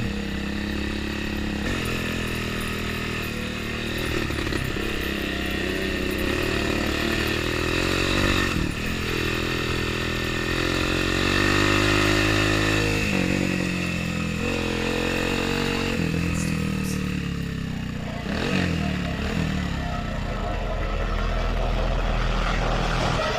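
Motorcycle engine running under way. Its pitch climbs and then drops sharply several times.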